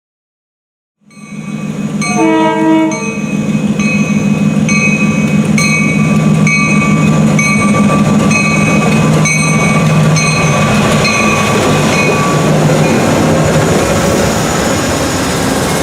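Train led by an EMD MP-15 switcher locomotive passing with its horn sounding: a short horn note about two seconds in over a steady low drone. A bell rings about once every two-thirds of a second and fades out near the end.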